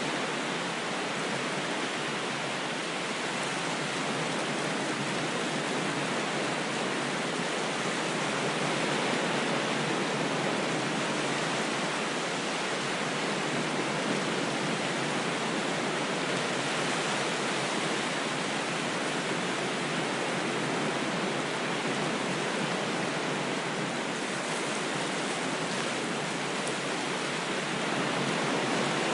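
Ocean waves washing ashore: a continuous, even rush of surf that swells slightly about ten seconds in and again near the end.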